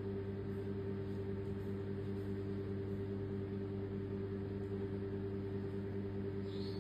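A steady low-pitched hum with several overtones, unchanging in pitch and level.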